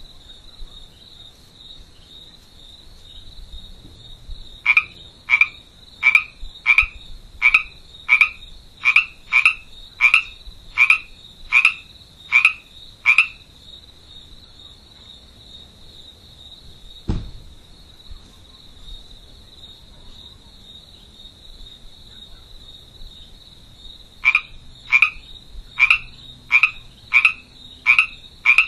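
Frog croaking: a dozen short calls, about one and a half a second, then a pause and a second run near the end. Under them runs a steady high-pitched trill, and there is a single knock around the middle.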